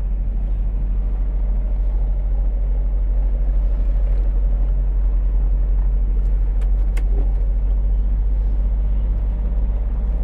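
Semi-truck diesel engine running steadily, a low rumble heard from inside the cab, with a few brief clicks about six to seven seconds in.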